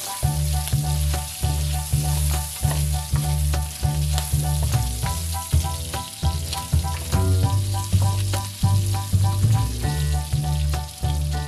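Pork sizzling in a wok as a plastic spatula stirs and scrapes it, under background music whose repeating bass line comes in just after the start and is the loudest part.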